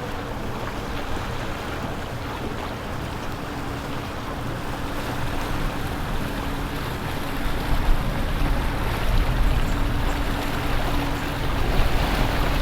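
A boat motor running with a steady hum over rushing water and wind noise. The low rumble grows louder about two-thirds of the way through.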